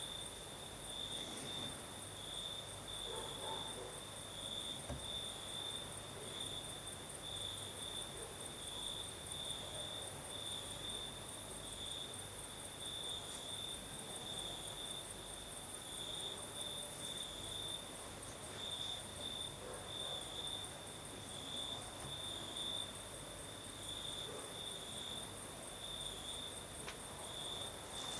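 Crickets chirping in a steady night chorus: one high trill pulsing evenly without a break, with an even higher, finer insect buzz above it.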